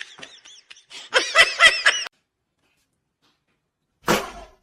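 A person snickering, a quick run of high-pitched laughs that cuts off abruptly about two seconds in. After a silent gap comes one short falling sound near the end.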